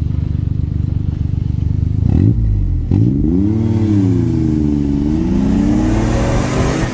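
Twin-turbo V6 car engine idling with a low rhythmic rumble, then revved hard about two seconds in as the car launches from a standstill. Its pitch climbs, dips and climbs again as it pulls through the gears.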